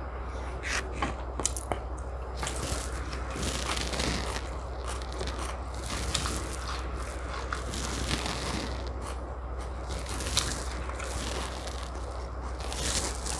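Close-up eating sounds: a person chewing and biting into chicken biryani and tandoori chicken, with irregular wet smacks, crunches and clicks, over a steady low hum.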